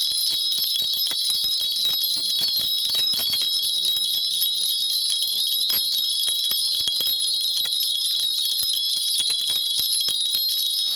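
Korean shaman's ritual bell cluster (bangul) shaken without a break, a dense, steady, even jingling of many small bells.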